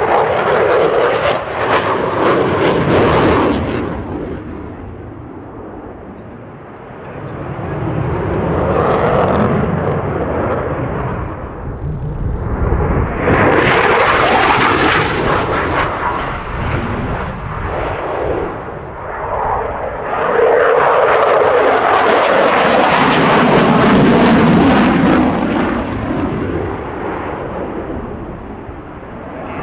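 Twin-engine Eurofighter Typhoon jet noise, loud and swelling and fading several times as the fighter flies its display passes, with the longest, loudest stretch in the second half.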